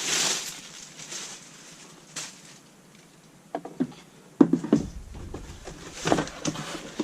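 Unboxing handling noise: a rustle of packaging at the start, then scattered clicks and a few knocks and clunks as the chainsaw is lifted out and set down, the loudest with a low thump about four and a half seconds in.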